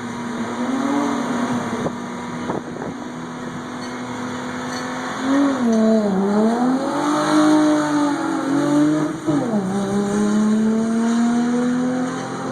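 Nissan Maxima engine running with changing revs: steady at first, dipping and recovering about five to six seconds in, then dropping sharply near nine and a half seconds and climbing slowly again.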